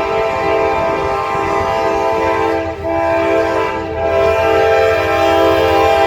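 Freight locomotive's multi-chime air horn sounding a long, steady blast, broken twice for a moment about a third and two-thirds of the way in, over the low rumble of the train.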